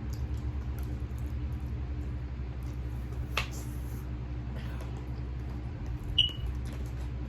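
Quiet eating between bites of noodles: a few faint clicks and small handling noises over a steady low room hum, with one sharper click about three seconds in and a brief high squeak about six seconds in.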